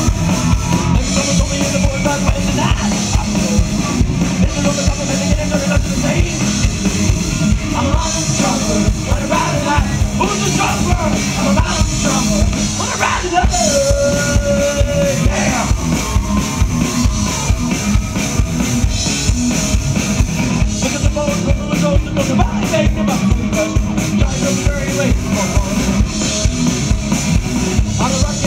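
Live rock band playing, with the drum kit prominent.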